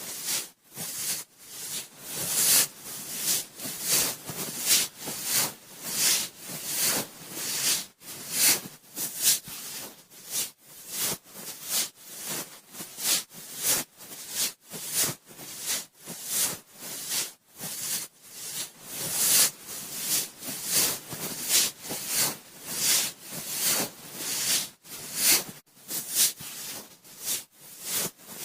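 Cotton swab rubbing and swirling inside an ear, close to a binaural microphone. It makes a run of scratchy rustling strokes at a little over one a second.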